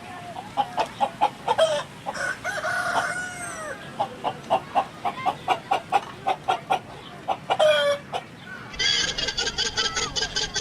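Chickens clucking in a quick series of short calls, with a longer squawk near the end of the run. In the last couple of seconds a different, higher-pitched rapid chatter takes over.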